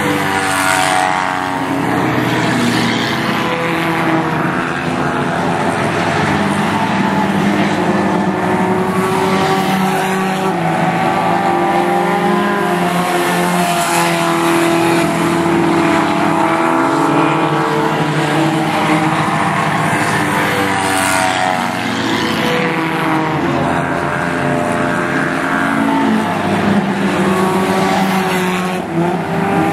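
Several race cars running together in a feature race, their engines' notes rising and falling as they come by and lap on.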